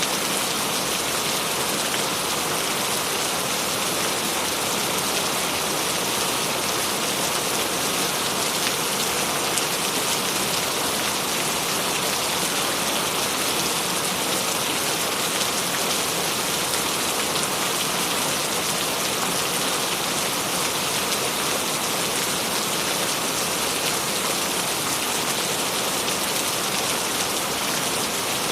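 Steady rain falling and pattering on a surface, an even, dense hiss with fine crackle of drops.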